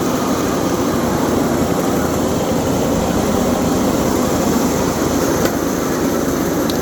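A steady, even engine drone.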